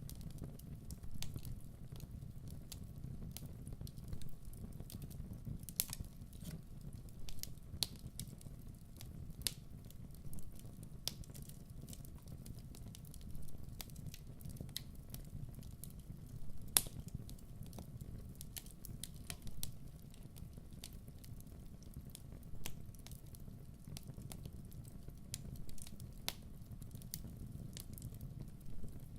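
Wood fire crackling: irregular sharp pops and snaps over a low, steady rumble of the burning, with one louder snap a little past halfway.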